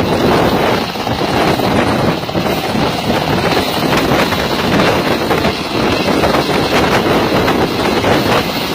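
Helicopter running nearby: a loud, steady rush of rotor and engine noise.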